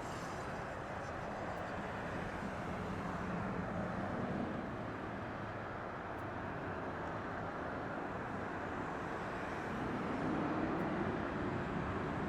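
Distant jet airliner engine noise, a steady rumble that swells slightly twice.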